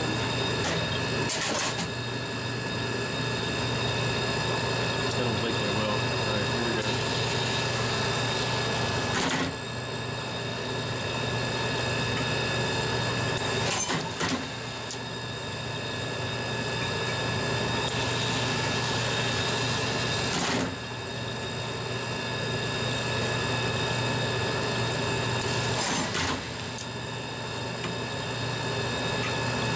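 Dixie Narco 240 soda vending machine's vend motor and gearbox running steadily as the rotor turns to drop cans. There are sharp knocks about five times, where the hum steps in level.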